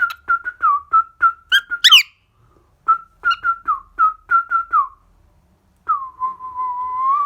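Pet cockatiel whistling: a quick run of about a dozen short whistled notes, each dipping at the end, then after a pause a long steady held whistle.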